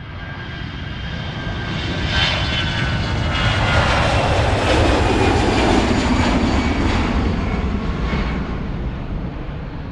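Jet airliner flying overhead, its engine whine and rumble growing louder to a peak about halfway through, then fading as it passes.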